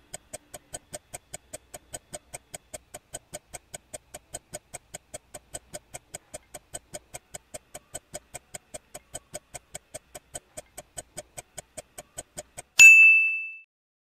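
Quiz countdown timer sound effect ticking evenly and quickly, about three to four ticks a second. Near the end it stops and a single loud bright ding sounds and fades, marking time up and the answer being revealed.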